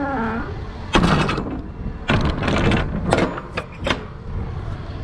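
Semi-truck trailer's metal swing doors being shut and latched: a short falling creak, then a run of metal clanks and rattles from the doors and their lock bars.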